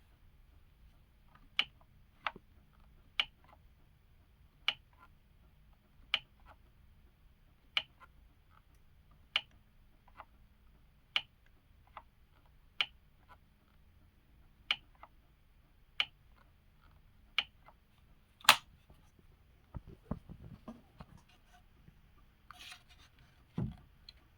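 Milwaukee M18 cordless top-handle chainsaw clicking over and over, one sharp click every second or so and no motor running: the saw won't start. A louder click comes about 18 seconds in, followed by a few knocks and rustles of handling.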